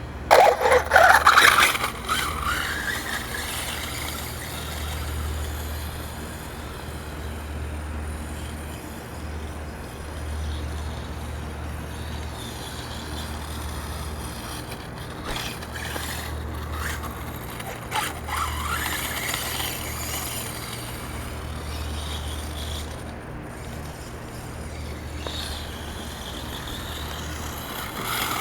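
Electric 1/5-scale RC monster truck running, its brushless motor whining up in pitch as it accelerates, once near the start and again about two-thirds of the way through, over a steady low hum.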